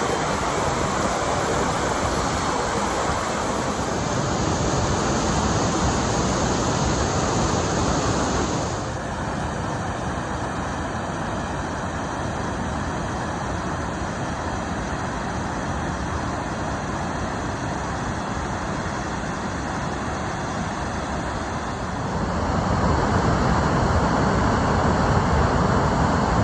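Steady roar of water rushing out of a dam during a flash release, changing abruptly in level and tone twice.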